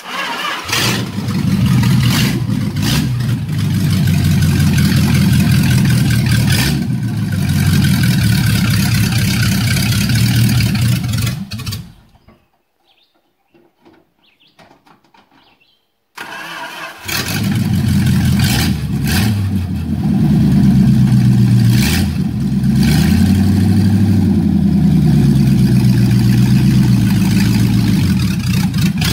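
Engine of a stripped-down 1951 Dodge Coronet project car running and being revved, its pitch rising and falling. The sound is broken by a few seconds of near quiet in the middle.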